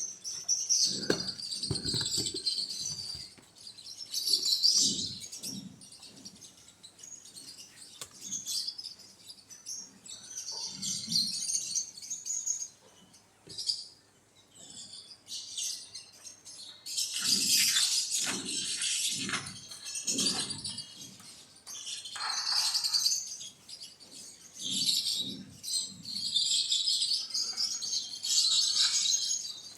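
Small birds chirping in a busy chorus of high, quick calls, with scattered soft low thumps among them.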